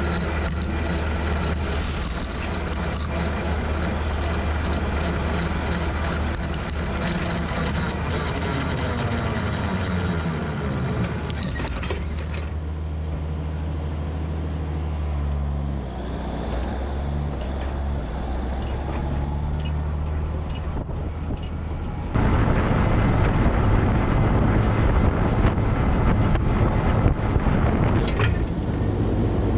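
Tractor engine running a rotary cutter (bush hog). A falling whine comes midway, the sound drops quieter about 12 seconds in, and it turns suddenly louder and noisier at about 22 seconds.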